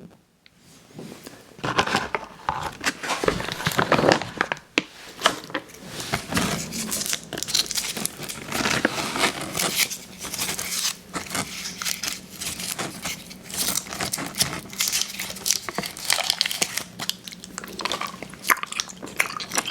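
Close-miked chewing of sour gummy worms cereal: a dense run of crackling, clicking mouth sounds that starts about a second in.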